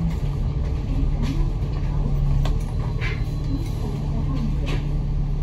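Bus engine running steadily with a low hum, plus a few sharp clicks or rattles.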